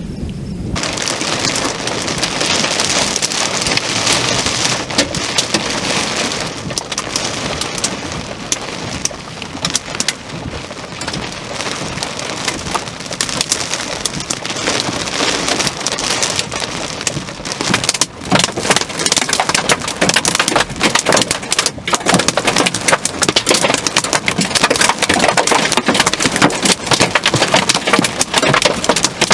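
Torrential thunderstorm rain pouring down as a dense, loud hiss of drops striking a surface. It sets in sharply about a second in. From about halfway on, sharper, louder individual impacts stand out within the downpour.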